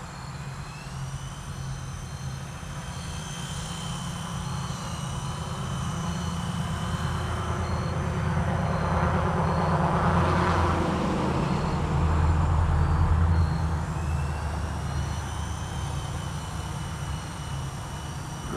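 Blade 120 S2 electric micro RC helicopter in flight, its motors and rotors giving a steady high-pitched whine that drifts slightly up and down in pitch. The sound grows louder through the middle and eases off again toward the end.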